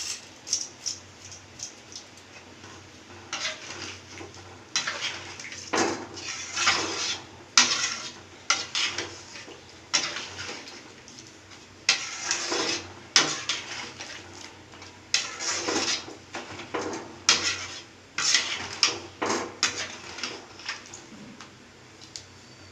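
A metal utensil scraping and clattering against a metal cooking pot in repeated bursts, about one every second or so, tailing off near the end.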